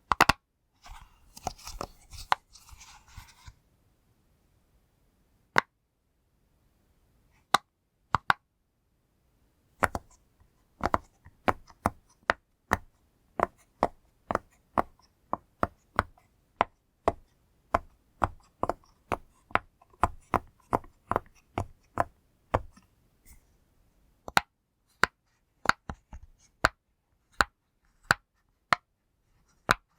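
A silicone push-pop fidget toy being pressed, its bubbles popping with short sharp pops: a few scattered ones with a brief rustle at first, then a steady run of about two pops a second from about ten seconds in.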